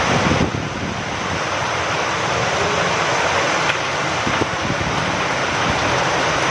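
Steady rain falling with wind, a dense even hiss with a couple of faint taps.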